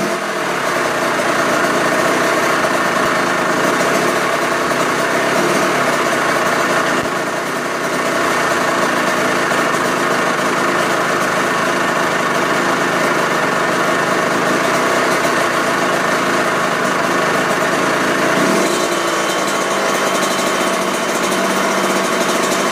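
Kawasaki KX85's 85 cc single-cylinder two-stroke engine idling steadily just after a tune-up, with a short blip of the throttle about eighteen seconds in.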